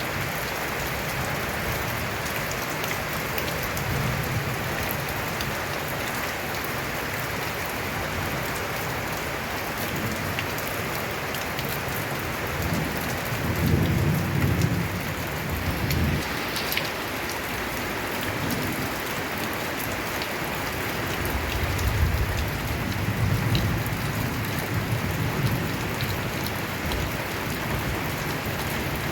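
Steady rain drumming on a corrugated tin roof. Two rolls of low thunder come through, one near the middle and one about three-quarters of the way in.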